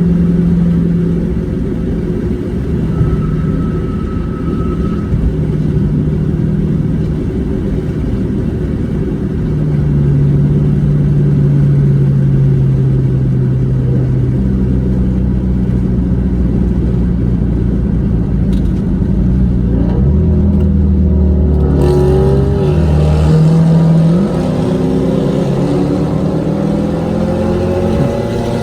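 Car engine running steadily while driving, its pitch shifting in steps. In the last several seconds it revs up in rising sweeps as the car accelerates.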